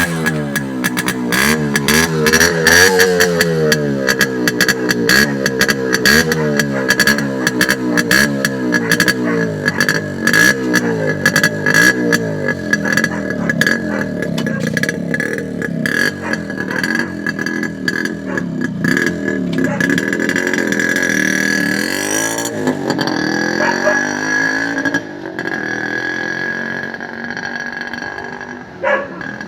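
Yamaha RX100's two-stroke single-cylinder engine running and being revved up and down, with a crackling exhaust note. It drops to a quieter, steadier idle near the end. The seller judges the engine sound good.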